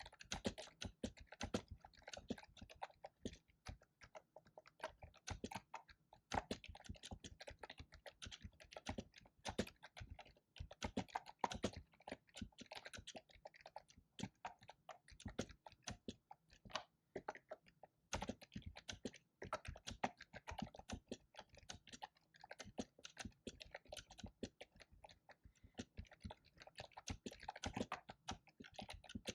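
Fast typing on a computer keyboard: dense, irregular key clicks with short pauses between bursts.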